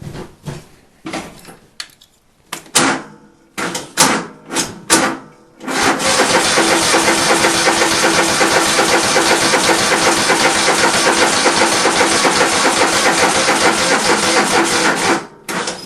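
A few clicks and knocks, then the electric starter of a John Deere L130's 23 hp Kohler V-twin cranking steadily for about nine seconds without the engine firing, stopping abruptly near the end. The engine fails to start, and the battery is running out of charge.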